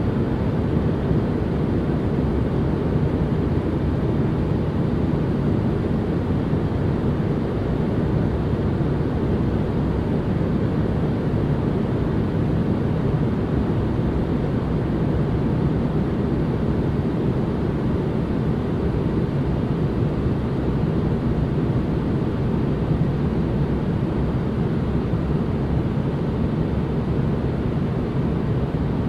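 Steady white noise ambience: an even, unchanging hiss with a deep tone, most of its weight low down and little high treble.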